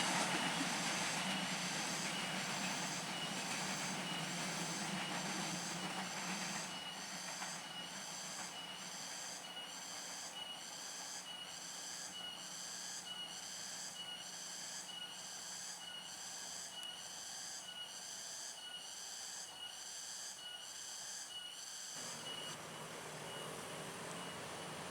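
A passing train receding, its running noise fading away, with the lower part of the rumble dropping out near the end. Over it runs a steady high-pitched chirping that repeats a little more than once a second.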